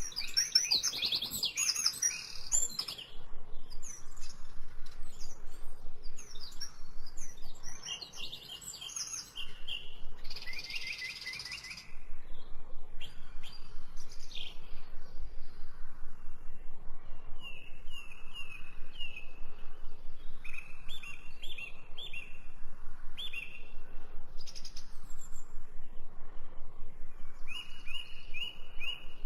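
Songbirds singing and chirping, several phrases overlapping, with quick runs of repeated notes in the second half.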